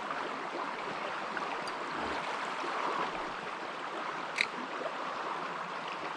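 Creek water running over rocks, a steady rushing, with one short sharp click about four seconds in.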